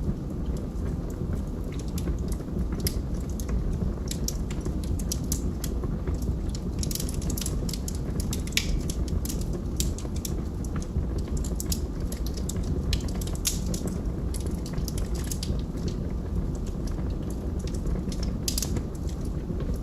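Log fire burning, with frequent sharp crackles and pops of the wood over a steady low rumble of the flames.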